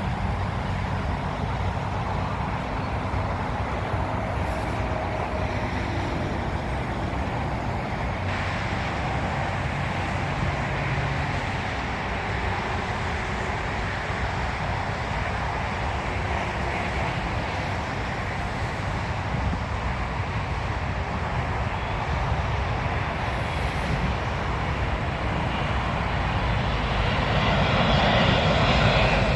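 Jet engines of a Boeing 787 airliner make a steady noise that grows louder over the last few seconds.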